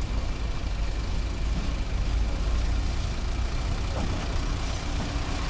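Engine idling steadily with a deep low rumble.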